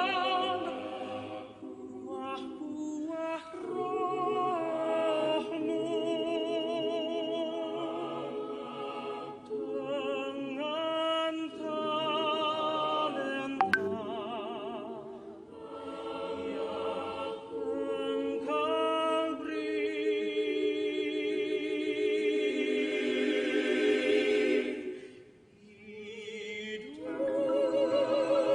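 Voices singing a slow song in parts, with held notes and vibrato, apparently unaccompanied. A single sharp click about halfway through.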